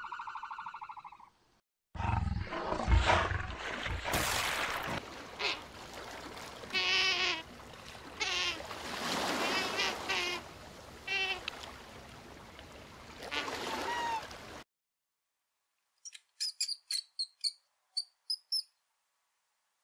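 A pulsed, pitched animal call for the first second or so, then about twelve seconds of sea otters' wavering squealing cries over a steady rushing noise. After a short silence comes a quick run of about eight high-pitched squeaks from a small rodent.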